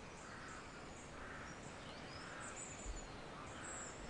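Faint nature-sound ambience: a steady hiss with soft chirps repeating about once a second, and a few short high bird chirps.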